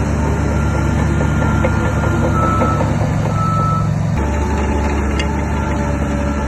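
Diesel engine of heavy earthmoving machinery running steadily, with two short beeps from a reversing alarm partway through. The engine sound changes abruptly about four seconds in.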